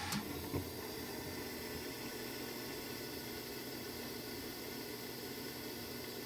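Old Heil gas furnace running: a steady rushing hiss, with a sharp click right at the start and a single knock about half a second in.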